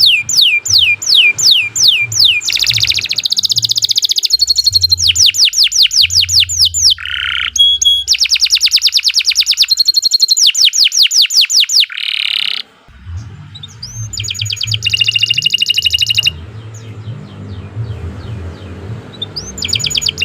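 Domestic canary singing a long, loud song of fast trills and rapidly repeated descending notes, with a brief pause about two-thirds through before the trills resume.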